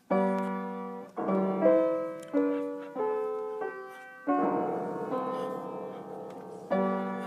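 Piano keys struck at uneven intervals, about nine times, sometimes a single note and sometimes a cluster, each left to ring and fade. This is the random playing of a pet pawing or stepping on the keyboard.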